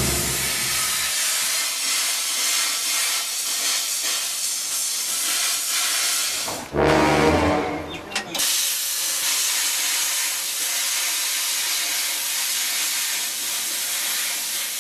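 Plasma cutter running a cut through steel, a steady loud hiss of the arc and air jet. It is broken once about halfway by a louder, lower-pitched stretch lasting under two seconds, then carries on and stops abruptly at the end.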